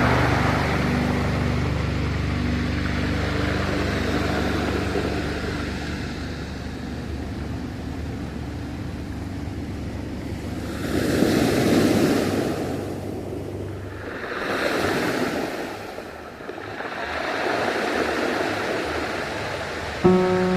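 Ocean waves washing in, swelling and falling back in three surges in the second half. The last low notes of background music fade out over the first few seconds, and music comes back in right at the end.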